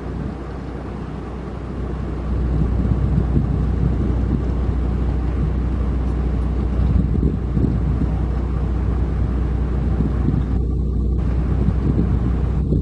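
Heavy diesel machinery running with a steady low rumble that grows louder about two seconds in, with wind buffeting the microphone.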